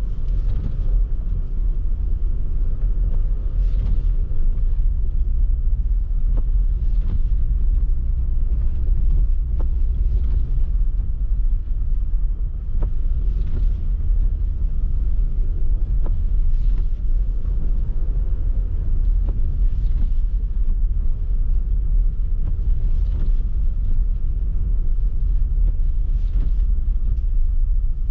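Car driving: a steady low rumble of engine and tyres, with a brief swish about every three seconds.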